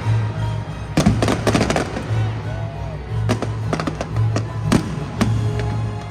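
Fireworks exploding: a quick cluster of bangs about a second in, then single bangs every half second or so, over music with a pulsing bass beat.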